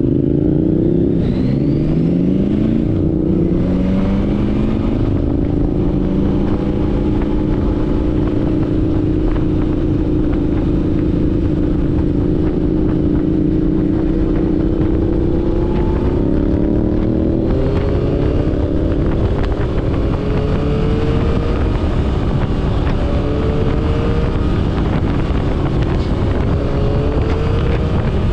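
Motorcycle engine running under way: its pitch climbs over the first few seconds, holds steady at a cruise, then climbs again in several short rises through the second half as the bike accelerates.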